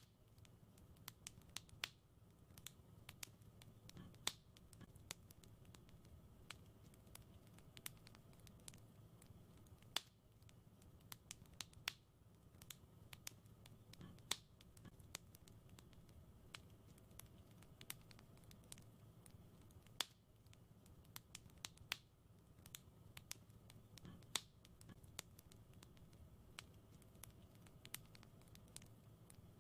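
Wood fire crackling in a fireplace: irregular sharp pops and snaps, a few louder ones every couple of seconds, over a soft steady low rumble.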